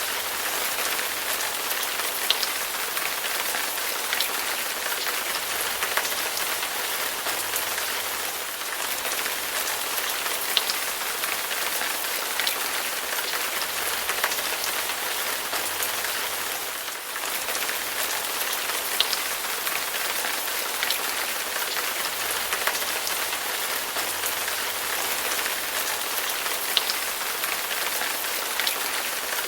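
Heavy rain falling steadily in a dense hiss, with scattered sharper drops ticking through it.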